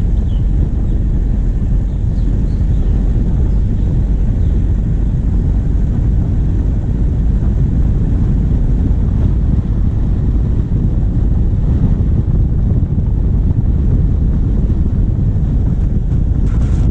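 Steady low rumble of a diesel vehicle driving on a forest track, heard from a bonnet-mounted camera, with wind buffeting the microphone.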